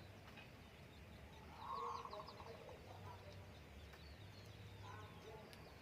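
Faint birdsong: many short, high, falling chirps throughout, with one louder, short, rattling call about two seconds in.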